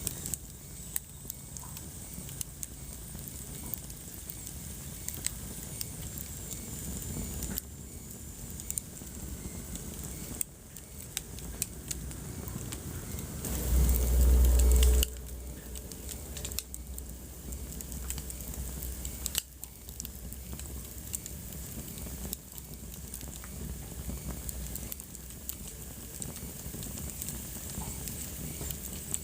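Wood fire crackling in a fireplace: frequent small pops and snaps over a soft steady hiss. Roughly halfway through, a loud low rumble lasts about a second.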